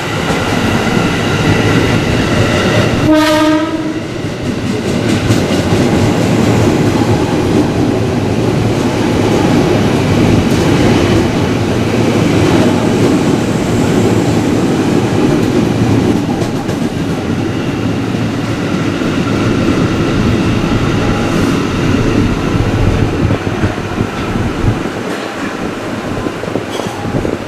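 A train passing close by at a station, running loud and steady with wheels clacking over the rail joints. A short horn blast sounds about three seconds in.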